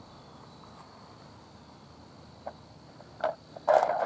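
A cricket trilling steadily in the background, with a couple of light knocks about two and three seconds in and a louder clatter of knocks near the end as stone points and blades are handled.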